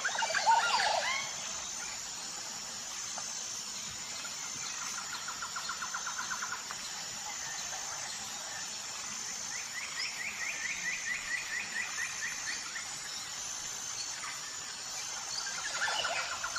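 Birds singing outdoors: sweeping calls at the start, then rapid trilled phrases, one lower and a later higher one lasting about three seconds, over a faint high pulsing note.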